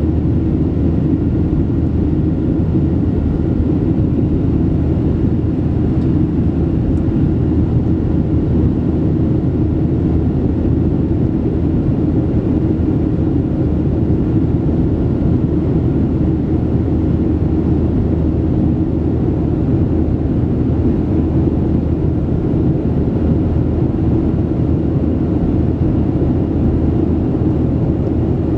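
Steady drone inside the cabin of a Boeing 737-700 in flight: the CFM56-7B turbofan engines and rushing airflow, with a low hum running under it.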